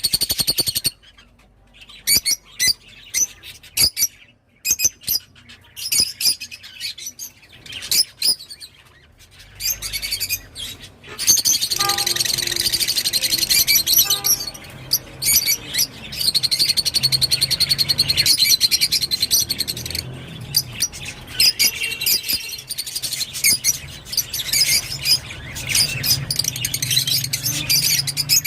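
Rosy-faced lovebird chirping: short, sharp high calls with gaps at first, then a dense, almost continuous high chatter from about a third of the way through.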